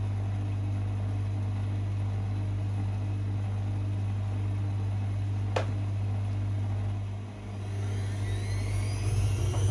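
Privileg 5020 washing machine running with a steady low hum, a single sharp click about halfway through, then its drum motor starting up, with a whine that rises in pitch as the drum speeds up.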